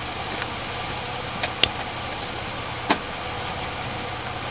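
Car engine idling with a steady low hum, with a few faint clicks.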